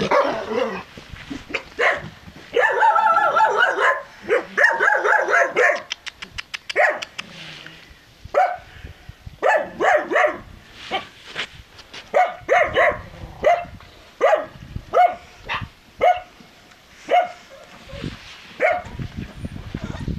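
Four-week-old Turkmen alabay puppies barking and yipping in many short high calls, with two longer drawn-out cries a few seconds in.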